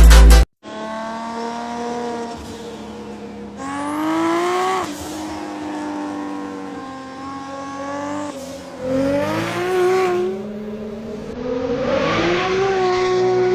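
A sports car's engine revving and accelerating, its pitch rising sharply three times, around four, nine and twelve seconds in, with steadier running between. Loud electronic music cuts off about half a second in.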